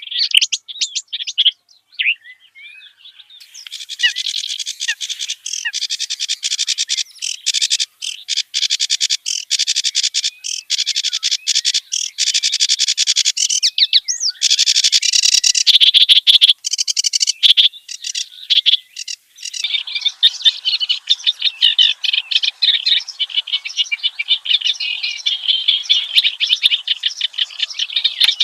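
Reed warbler (kerak basi) singing a long, rapid, varied chattering song of harsh and whistled notes, with a short pause about two seconds in.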